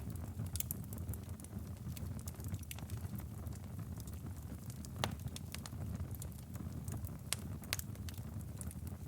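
Firewood burning in a fireplace, crackling with irregular sharp pops over a steady low rumble of the flames. The loudest pop comes about halfway through.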